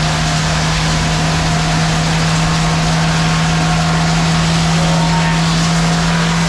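Lumber edger running at a steady speed: a constant low hum over an even mechanical wash, with no change through the stretch.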